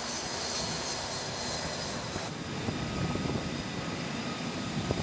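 Jet aircraft engine noise: a steady roar with a high whine, changing abruptly a little over two seconds in.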